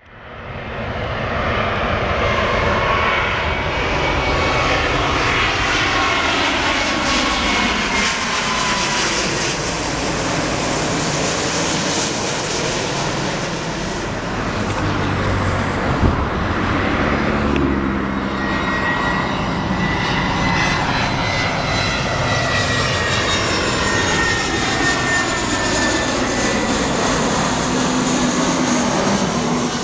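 Jet airliner on landing approach, its engines' loud rushing noise passing close, with whining tones that slide slowly in pitch. There is a brief thump about sixteen seconds in.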